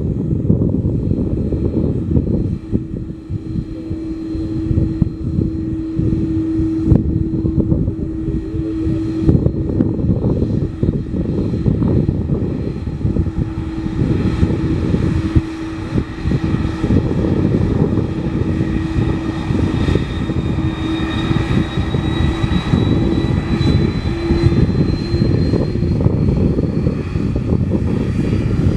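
Airbus A330-300 twin jet engines at high power during the departure: a heavy, steady low rumble with a hum held under it, and a thin high whine that climbs slowly in pitch in the last third.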